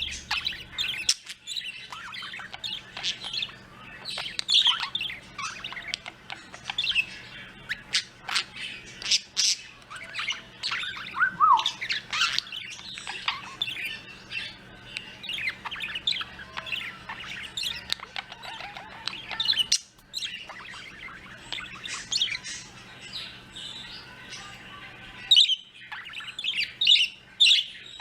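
Several small birds chirping and squawking in quick, overlapping short calls, with a few falling whistled notes.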